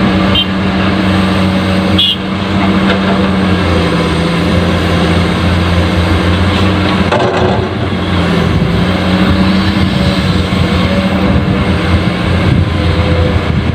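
Dump truck engine running steadily, a low hum with a slightly wavering pitch.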